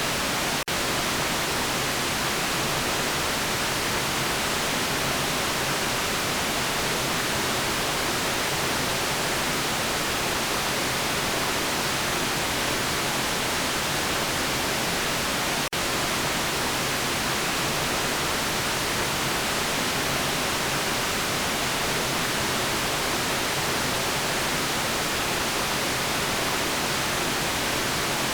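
Steady generated white noise, an even hiss weighted toward the high end. It breaks with two momentary dips, one under a second in and one about halfway through.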